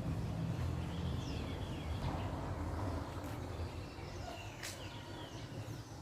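Birds chirping: a scattering of short, high calls and quick pitch sweeps, over a low rumble of background noise that fades away over the first few seconds.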